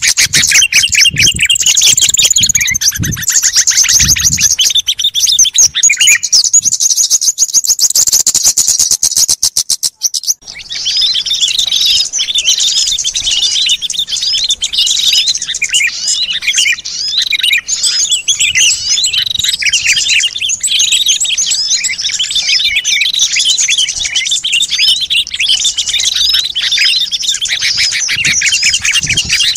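Bird-lure recording of many small songbirds chirping and chattering together in a dense, overlapping chorus. A fast, evenly repeated trill runs in the first part, and the mix changes abruptly about ten seconds in to a busier, continuous chatter.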